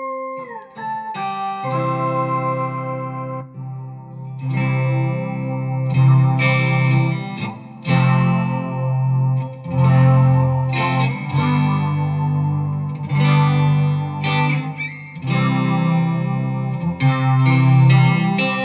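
Guitar played through a BOSS SY-200 synthesizer pedal, giving sustained analog-style synth tones. A held note glides down in pitch right at the start, then a series of synth chords and notes is struck, roughly one every two seconds.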